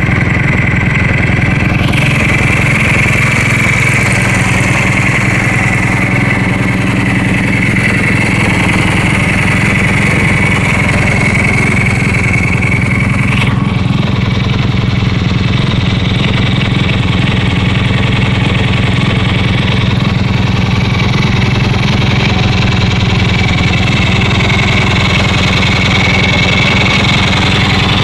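Ducati 350 motorcycle engine idling steadily as it warms up after a cold start in near-freezing air.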